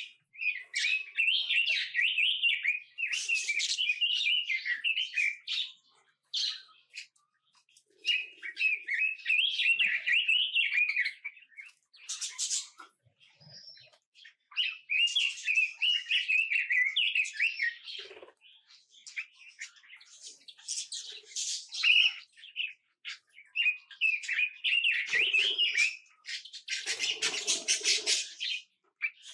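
Small songbirds singing in rapid, warbling twittering phrases of a few seconds each, separated by short pauses. A brief, noisier rustling burst comes near the end.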